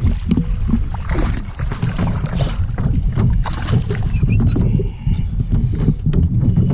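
Knocks, clicks and splashy handling noise aboard a fishing kayak, over a steady low rumble.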